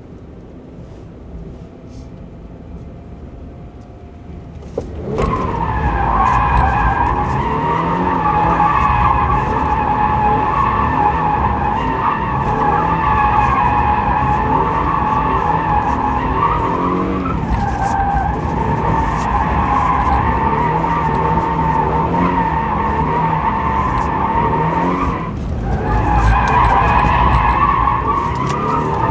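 A 2024 Toyota GR86's tyres squealing continuously in a drift, with the 2.4-litre flat-four engine revving underneath. The engine runs quieter at first. The squeal begins about five seconds in, breaks briefly near the end, and starts again.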